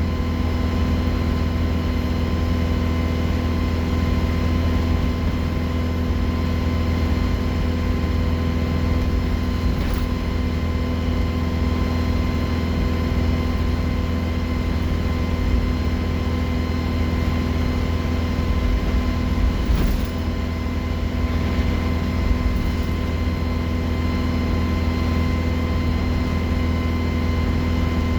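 Alexander Dennis Enviro 200 bus running steadily, its low engine drone overlaid by a steady high turbo whistle.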